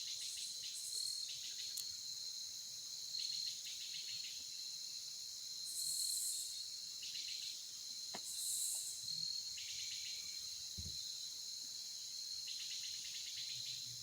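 Insects chirping and trilling: a steady high trill throughout, shorter chirping bursts every second or two, and two brief higher buzzes near the middle. A faint tick and a soft low thump come in the second half.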